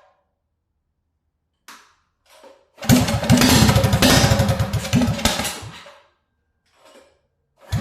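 Mini bike's small engine revving hard through a four-stage exhaust trumpet: rapid exhaust pulses with a wavering horn tone on top for about three seconds, then dying away. It starts up loud again near the end.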